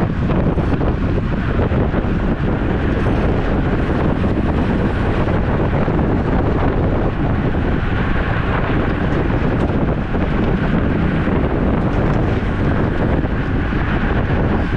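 Loud, steady wind noise buffeting the microphone of a camera riding on a moving road bike, a dense low rumble without breaks.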